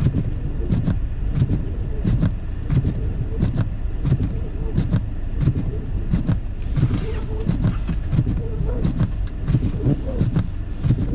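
Car driving through deep, fresh snow, heard from inside the cabin: a steady low rumble of engine and tyres with frequent irregular sharp clicks and knocks.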